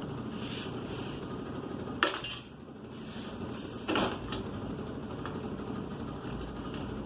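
Two sharp knocks, about two seconds apart, over a steady background rumble.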